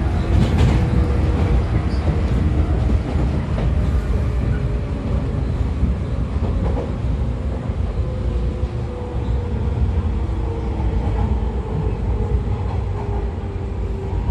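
Interior running sound of a JR 113 series electric train's motor car. The MT54 DC series-wound traction motors and gears give a steady whine over a heavy low rumble from the DT21 bogies on the rails, with a few faint knocks from the track.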